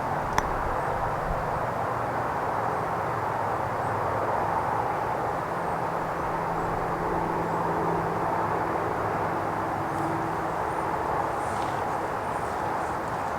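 Steady drone of a distant engine with a faint constant hum, heard across open country. There is a single sharp click about half a second in, and faint high chirps near the end.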